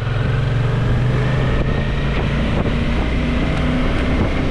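Suzuki V-Strom motorcycle engine running under load as the bike rides off, its note changing about two seconds in, with wind noise on the microphone.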